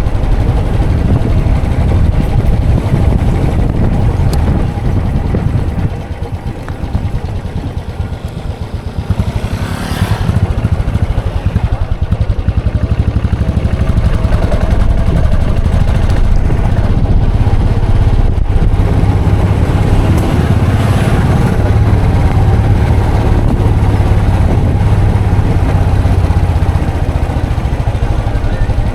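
Royal Enfield Classic 500 EFI's single-cylinder engine running under way. Its level drops off about six seconds in and comes back up near ten seconds.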